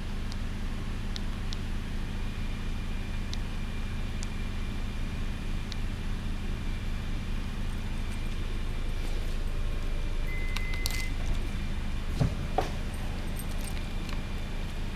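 Toyota RAV4's 2.5-litre four-cylinder engine idling steadily, with a short beep about ten seconds in and a couple of sharp clicks soon after.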